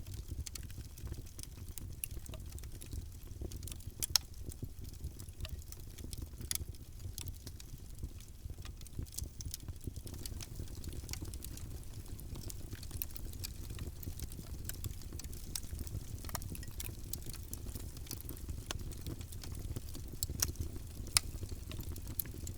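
Wood fire burning in a fireplace, crackling: scattered sharp pops and snaps over a steady low rumble.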